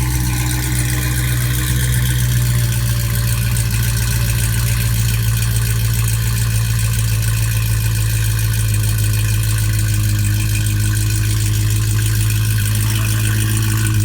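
Dodge Hellcat's supercharged V8 idling steadily, a low, even engine note with no revs.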